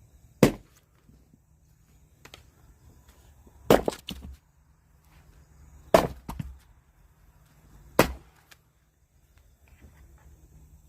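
Logs being chopped for firewood: four heavy chopping strikes about two seconds apart, the second followed by a quick crackle of splitting wood.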